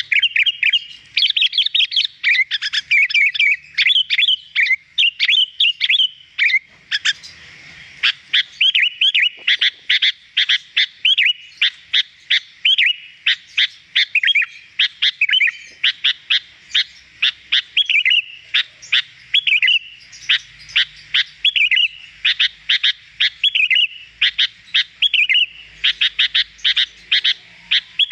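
Sooty-headed bulbul (kutilang) singing without pause: a rapid, unbroken run of bright chirps and short whistled phrases.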